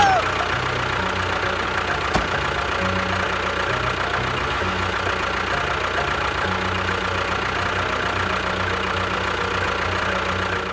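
A motor running steadily at constant speed, starting suddenly just before and cutting off suddenly at the end, with background music underneath.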